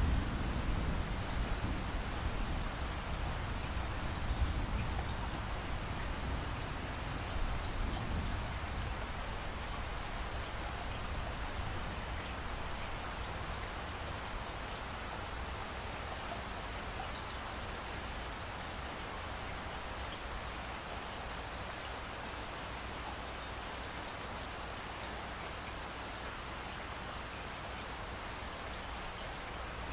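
Steady rain falling, an even hiss of drops, with a low rumble of thunder dying away over the first several seconds. A few single sharp ticks stand out later on.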